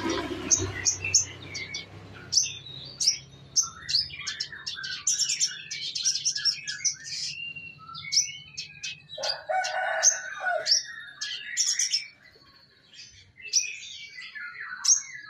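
Domestic canary singing: a run of quick high chirps, sweeps and rapid rolling trills, with a brief pause near the end. A lower, fuller call sounds for about a second around the middle.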